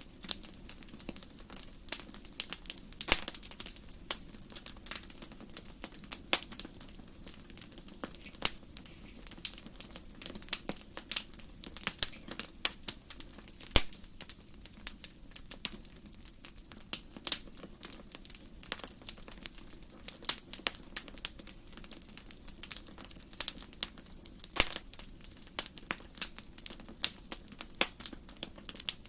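Wood fire burning in a fireplace: irregular sharp crackles and pops from the burning logs, a few louder snaps scattered through, over a low steady hiss of the flames.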